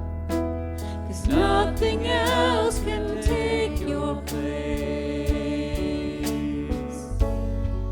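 Church worship music: sung voices over instrumental accompaniment with sustained bass notes, a vibrato melody line rising in about a second in.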